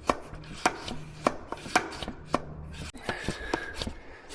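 Pressure tank of a brake-bleeding kit being hand-pumped up to pressure, each stroke giving a sharp click a little under twice a second.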